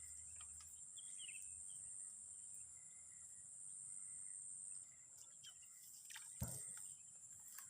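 Insects chirring steadily at a high pitch, with a few faint bird chirps about a second in and a single sharp knock about six and a half seconds in.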